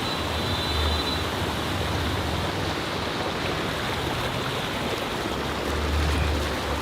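Steady rushing of a waterfall and stream, a dense even hiss of flowing water.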